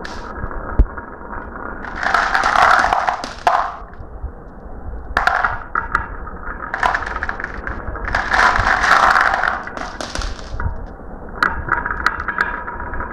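Marbles running down a marble run: spells of rattling rolling of a second or two, about four of them, with sharp clicks and knocks of marbles striking the track and each other in between.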